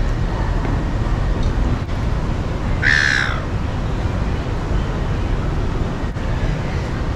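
A single harsh bird call about three seconds in, lasting about half a second, over a steady low background rumble.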